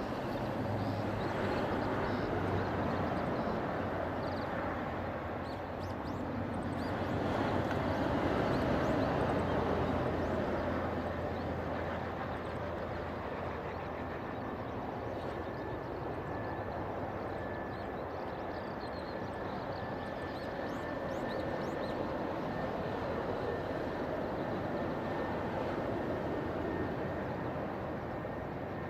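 Jet airliner's engines running as it comes in to land, a steady rush of engine noise that swells for a few seconds and then holds, with a faint steady whine in the latter half. Birds chirp faintly.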